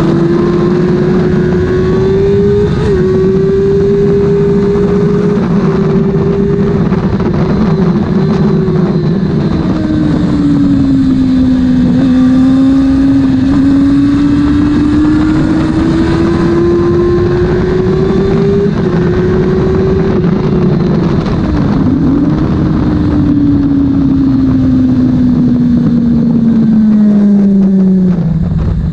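Honda CB400 Super Four's inline-four engine running hard at racing revs. Its pitch climbs and dips with throttle and gear changes, then falls steadily near the end as the bike slows.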